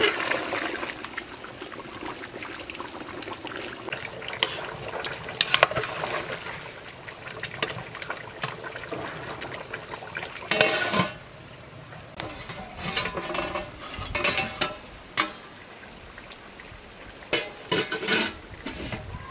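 Cooking sounds: liquid being poured and metal utensils clinking and knocking against a cooking pot, in irregular strokes, with a louder noisy burst about halfway through.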